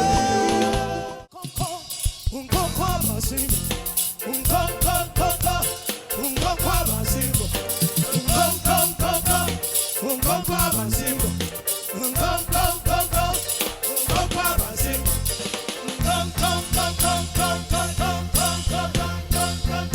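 Live gospel band playing an upbeat groove with drums and bass under a repeating bright riff. The music drops out for a moment about a second in, then comes back in full.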